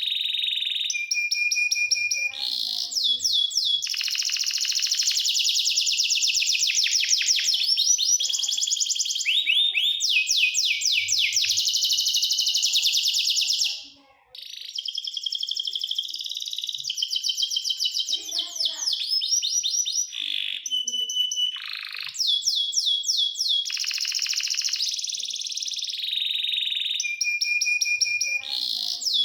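Domestic canary singing a long, continuous song of fast rolling trills and held whistled notes. The song cuts off briefly about halfway through, then resumes.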